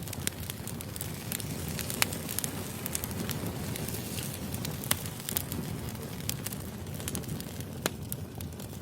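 Wood fire burning: a low steady rumble of flames with irregular sharp crackles and pops, the loudest about two seconds and five seconds in.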